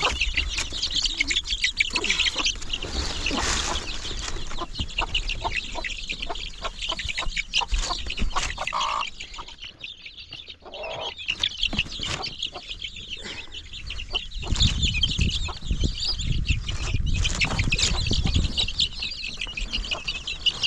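Chickens clucking and chirping. A low rumble joins about fourteen seconds in and fades out a few seconds later.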